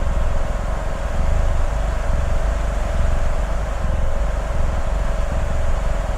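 Strong wind: a deep, gusting rumble over a steady hissing howl with a constant whistling tone. The rumble cuts off suddenly at the very end.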